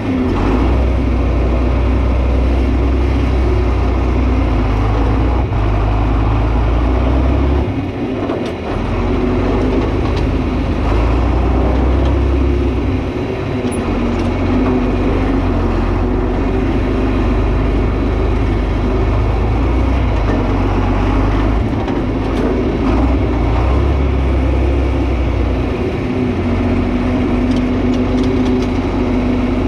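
John Deere 4320 tractor's turbocharged six-cylinder diesel engine running steadily under varying load as it works a front blade, its low drone swelling and easing every few seconds with short dips about eight and thirteen seconds in.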